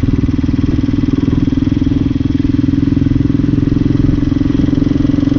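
Hyosung Hawk 250 motorcycle engine running at a steady cruising speed, picked up close by an on-board camera mic, holding an even pitch throughout.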